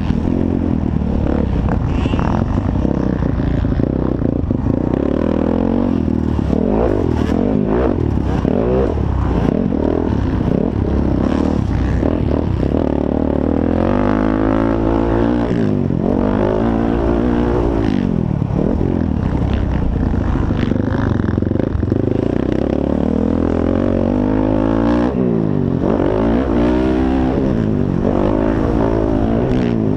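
Several motocross bikes racing, their engines revving up and falling back over and over as riders go through the gears and around the track, with the pitches of different bikes overlapping.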